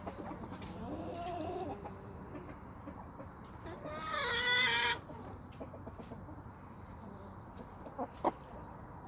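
Domestic chickens clucking softly, with one loud, drawn-out call lasting about a second around the middle, and a couple of short taps near the end.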